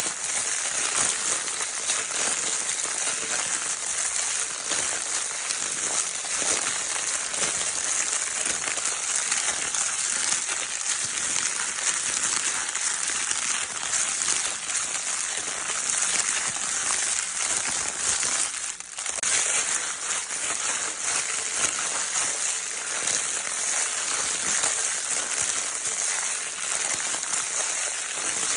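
Crinkle paper of a baby's crinkle toy being crinkled continuously, a dense, steady crackling, with a brief dip about nineteen seconds in.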